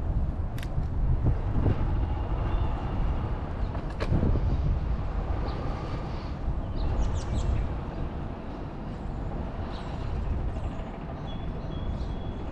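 Street noise heard from a moving bicycle: a steady low rumble of traffic and wind, with two sharp clicks about half a second and four seconds in, and a few short high chirps around seven seconds.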